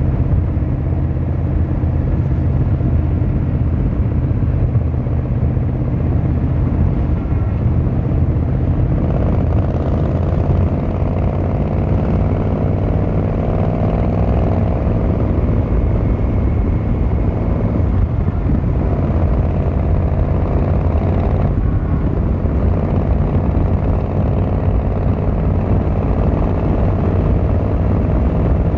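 Yamaha XVZ1300 Royal Star's 1300 cc V4 engine and exhaust under way. The note holds steady at first, then climbs under acceleration from about a third of the way in, with two brief breaks in the climb where the rider shifts gear.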